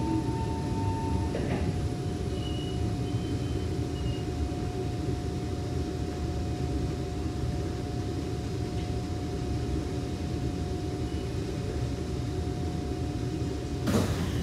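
Kawasaki C151 metro train running, a steady low rumble under a thin steady electrical whine. There is a sharp clatter near the end, and the whine cuts off with it.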